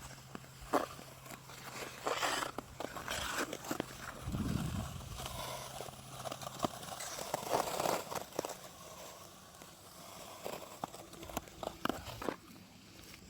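Skate blades scraping and clicking on hard lake ice: hissing scrapes a couple of seconds in and again near the middle, amid many sharp clicks and knocks.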